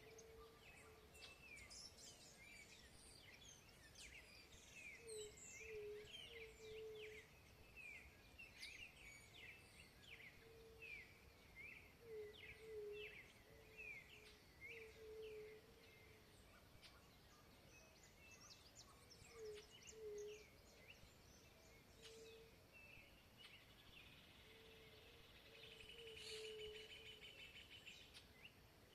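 Several wild birds singing faintly: many quick chirps and whistled notes, together with a lower call repeated in short groups. A buzzy trill comes in near the end.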